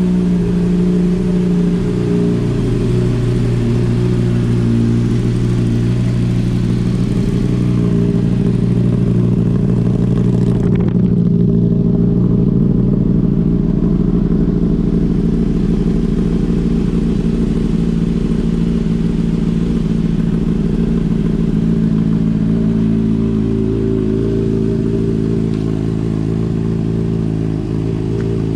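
Honda CBR600RR's inline-four engine idling steadily through an aftermarket Hotbodies slip-on exhaust.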